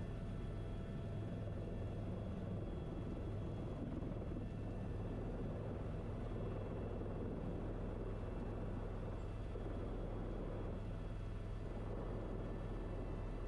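Steady helicopter cabin noise: a constant low drone with a few steady higher tones over a noise haze, unchanging throughout.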